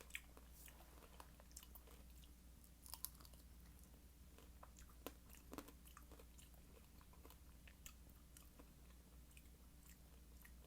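Faint chewing of fresh fruit, with a few soft, short mouth clicks and crunches scattered through, over a low steady hum.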